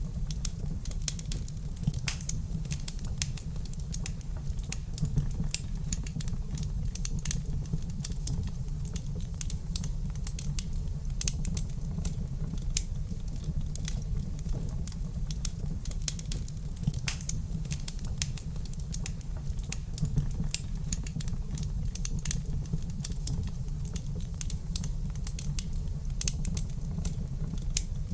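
Wood fire in a fireplace crackling: many small irregular pops and snaps over a steady low rumble.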